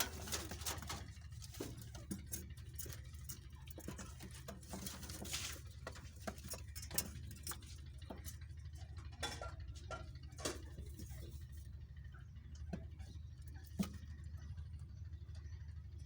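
Irregular light taps and scratches, denser in the first half, over a steady low hum.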